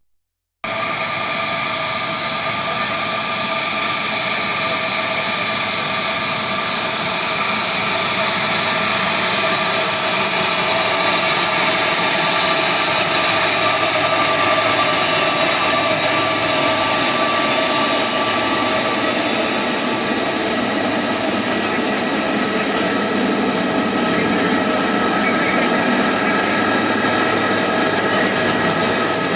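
Jet engines of a Boeing twin-engine widebody airliner at takeoff power, a steady loud rush with several high, steady whining tones. The sound starts abruptly about half a second in.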